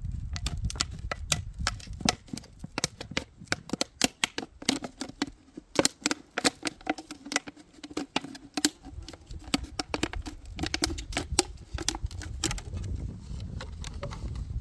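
Wasps caught in a trap, tapping and clicking irregularly against its walls, with a faint buzz of wings through the middle stretch. A low rumble runs underneath.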